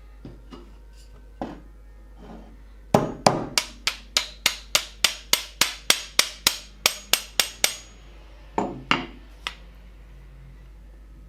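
Hammer striking in quick, even blows: a few light taps, then a run of about eighteen strikes at three or four a second, then three more after a short pause.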